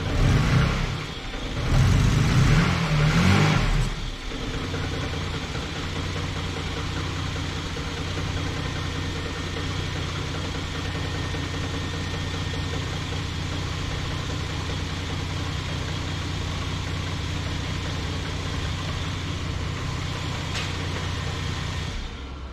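Vauxhall Omega MV6's 3.0 V6 engine, running again after a part in the inlet manifold was reseated: revved twice in the first few seconds, then idling steadily, and falling away near the end as it is switched off.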